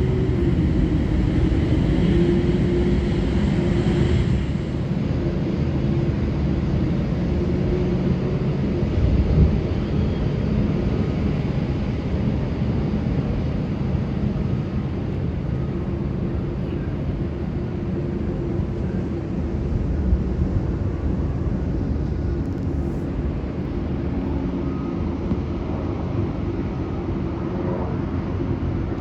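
Jet airliner engines running on the airfield: a steady rumble with a low hum, a little louder in the first few seconds.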